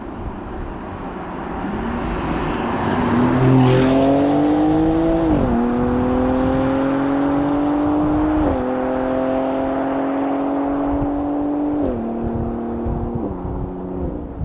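BMW X3 M Competition's S58 3.0-litre twin-turbo inline-six accelerating hard through the gears of its eight-speed automatic. The engine note climbs and drops sharply at four quick upshifts.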